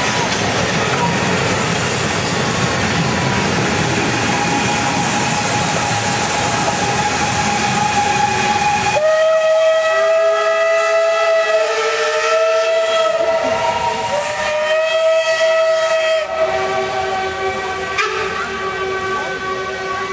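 A steam locomotive blowing off steam, a loud steady hiss, for about nine seconds. It stops suddenly and steam whistles take over, several pitches sounding together as a chord in a few long blasts that continue more softly toward the end.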